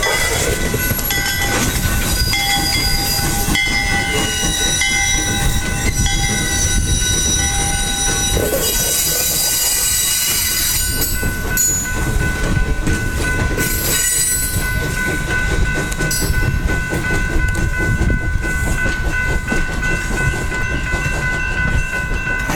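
Steam excursion train rolling past: wheels clacking over rail joints in a steady rumble, with steady high-pitched tones ringing above it.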